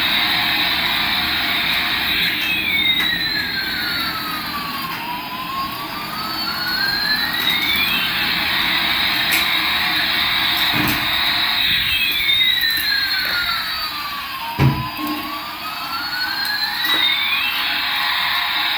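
A toy's electronic jet-engine sound effect: a steady hiss with whistling tones that sweep down and back up, the pattern repeating about every nine seconds. Two short knocks come in the second half.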